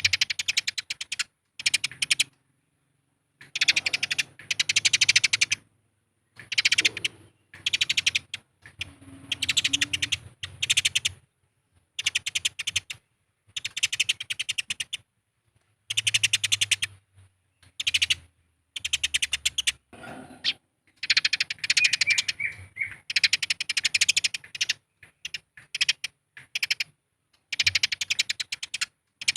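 Eurasian tree sparrows chattering aggressively as they fight: fast runs of harsh, clicky chirps in repeated bursts, broken by short silent gaps.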